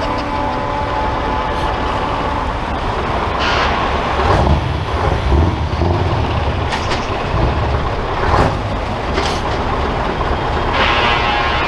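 Heavy trucks driving past with a deep, continuous engine rumble that swells about four seconds in, broken by several short hisses and a longer hiss near the end.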